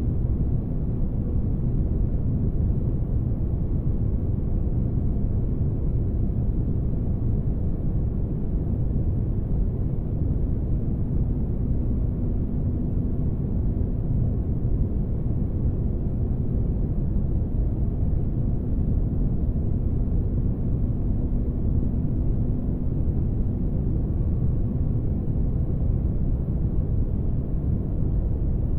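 Spaceship ambience: a steady deep rumble of low noise with a faint hum riding on it, unchanging throughout, like the background drone of a ship's engine room.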